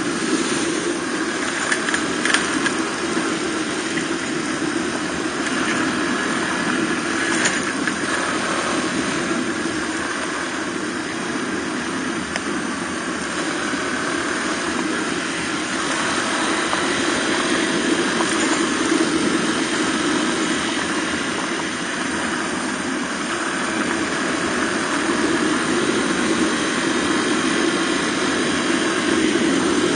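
Suzuki DR250R's single-cylinder four-stroke engine running steadily as the trail bike rides along, with a few sharp ticks about two and seven seconds in.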